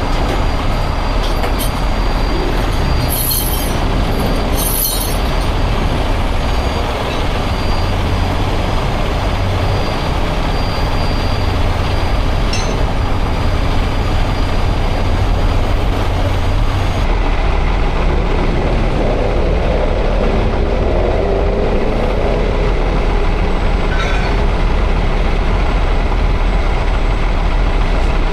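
Steady low rumble of heavy vehicles running, engine and road noise, with a few faint clicks.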